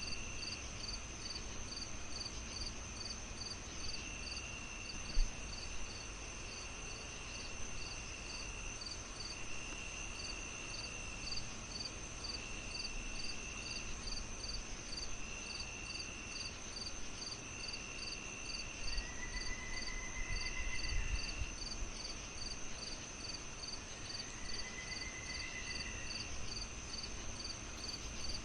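Crickets chirping: several insects at different pitches, one pulsing evenly, others trilling in repeated short bursts. Under them is a low crackling fire with one sharp pop about five seconds in.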